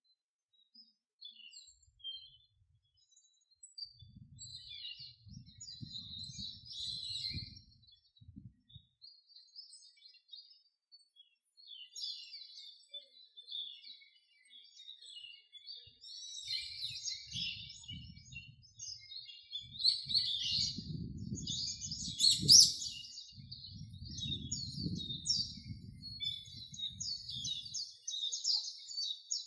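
Small birds chirping and twittering over and over, busier in the second half. A low rumble comes and goes beneath them.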